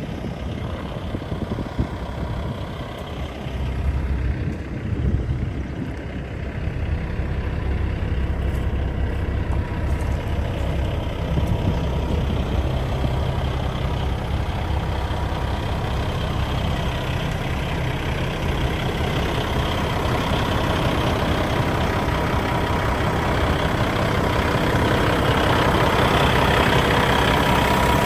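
Diesel engine of a 2013 Kenworth T660 box truck running steadily, gradually getting louder over the second half.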